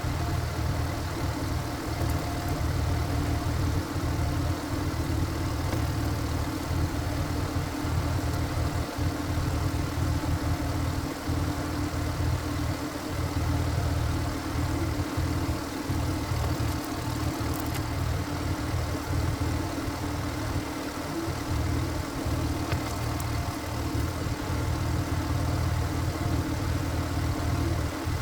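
Single-cylinder diesel engine of a walk-behind power tiller (gyeongungi) running steadily.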